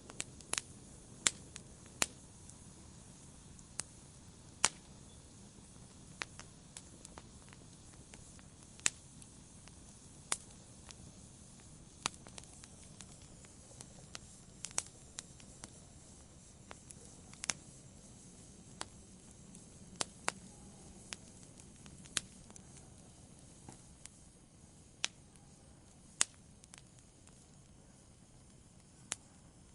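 Campfire crackling: sharp, irregular pops and snaps, roughly one a second, over a soft steady hiss of the burning fire.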